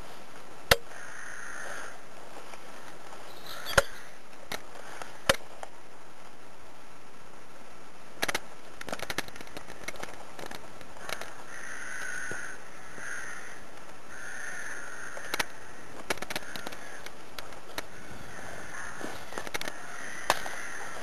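Harsh, caw-like bird calls repeating in short groups over a steady background hiss, with several sharp clicks or snaps; the loudest click comes about a second in.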